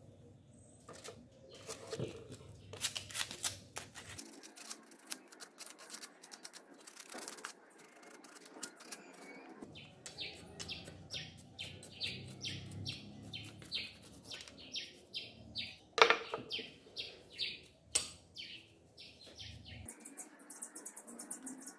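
Small wire brush scrubbing rust off a metal coolant pipe in short, quick strokes, about two a second, with one louder knock partway through. Lighter brushing near the end.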